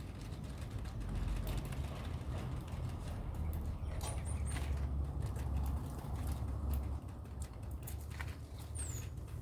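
Birds giving a few short, high chirps, a cluster about four seconds in and a falling one near the end, amid scattered clicks and scratching, over a steady low rumble.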